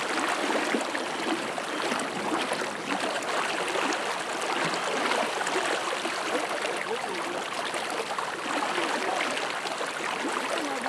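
Steady rush of fast, high river water, an even wash with a faint gurgle.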